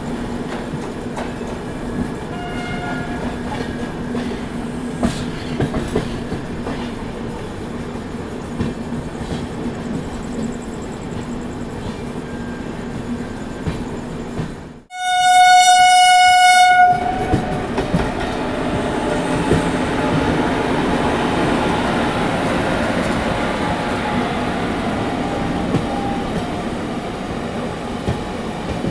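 Indian Railways Duronto Express train running at speed, with a steady rumble and rail clatter. A loud, single-pitched train horn sounds for about two seconds halfway through. After the horn the running noise is louder.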